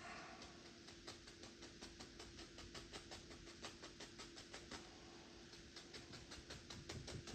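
Rapid, irregular light taps, several a second: a paintbrush dabbing paint onto the canvas, over a faint steady hum.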